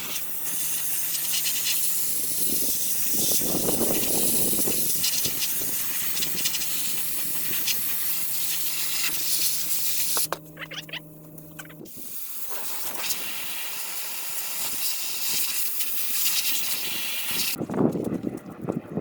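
Sandblaster blasting: a steady, loud hiss of air and grit. It stops for about a second and a half near the middle, starts again, and cuts off shortly before the end. A low steady hum runs under the first half.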